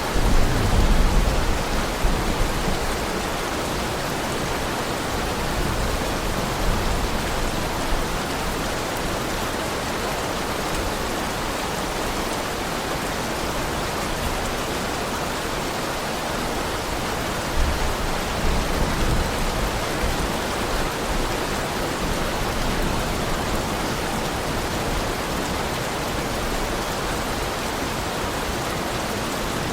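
Heavy rain falling in a steady, even hiss. Low rumbles of distant thunder swell just after the start and again about eighteen seconds in.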